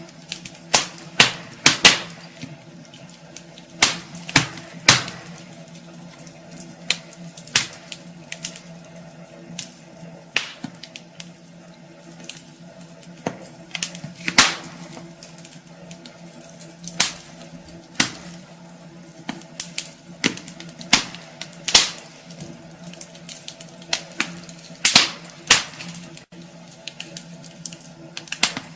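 Wood fire burning in a fireplace, with irregular sharp crackles and pops of the burning logs over a low steady hum.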